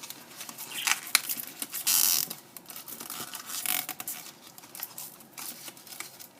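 Drinking straws rustling, clicking and scraping against each other as they are bent and tied together in a bundle, with a louder scraping rush about two seconds in.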